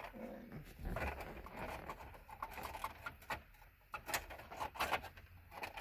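Plastic steering-column trim panel being slid and worked into place: a scraping rustle with irregular taps and clicks, several sharper clicks in the last two seconds.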